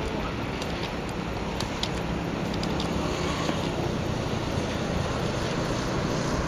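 Freight train running by: a steady rumble with a few short, high clicks or squeaks in the first half.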